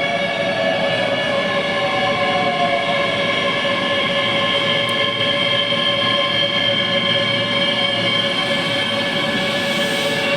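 Keihan 3000 series electric train pulling in to a stop. Its running gear gives a steady whine of several high tones, with one tone falling in pitch over the first few seconds as the train slows.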